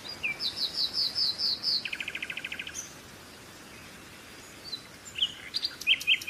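Songbird singing: a run of about seven quick, high, falling chirps, then a fast trill, and a few more chirps near the end.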